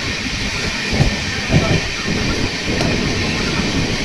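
Train running along the track: a steady rumble and hiss, with a couple of louder low knocks between one and two seconds in.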